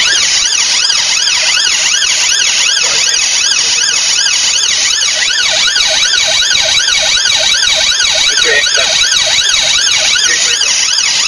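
Police car siren on a fast yelp, its pitch sweeping up and down about four times a second without a break.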